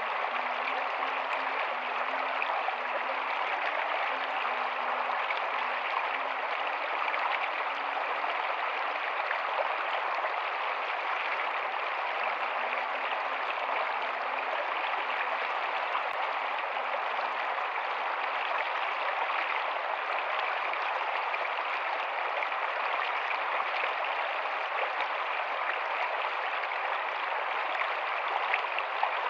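Rocky stream running over stones: a steady, even rush of flowing water.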